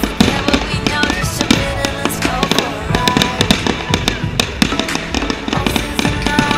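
Fireworks going off in a quick, irregular series of bangs and crackles, with music playing underneath.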